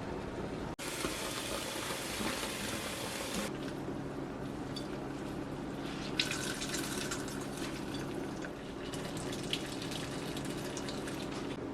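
Kitchen tap water running into a sink for about three seconds and then shutting off, followed by light clinks and clatters of kitchenware being handled.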